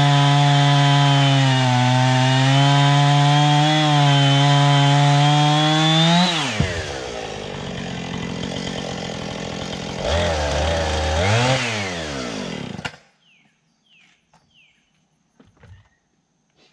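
A gasoline-engine saw runs at full throttle under load, cutting wood, its pitch sagging and recovering as it works. About six seconds in it drops to idle. It revs up once more and shuts off abruptly about thirteen seconds in, leaving a few faint chirps.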